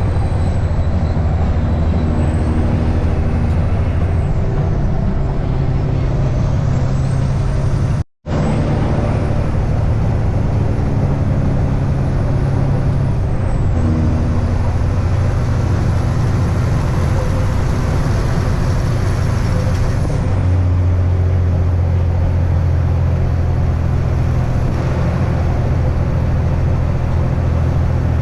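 Semi truck's diesel engine running, heard from inside the cab as a steady low drone whose note shifts a few times as the truck drives. The sound drops out for an instant about eight seconds in.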